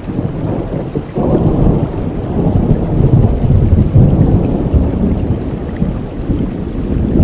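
Steady rain with a long roll of thunder, which swells suddenly about a second in and rumbles on low and loud.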